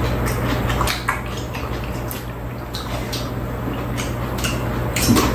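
Wet chewing and lip-smacking of people eating grapes, with scattered short clicks, over a steady low hum.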